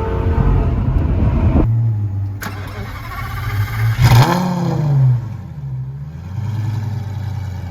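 Lamborghini Gallardo Superleggera's 5.0-litre V10 through an aftermarket exhaust, first pulling with rising pitch, then abruptly idling with a steady low note. About four seconds in, a single sharp rev flare rises and drops back to idle.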